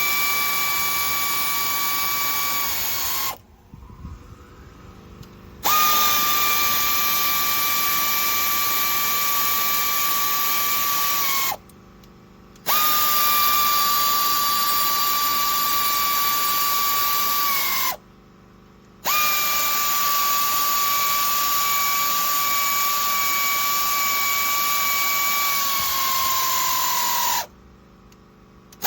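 Low-speed air ratchet running cylinder head bolts down into aluminium heads: a steady high whine in four runs of several seconds each, the pitch dropping at the end of each run as the bolt seats and the tool slows.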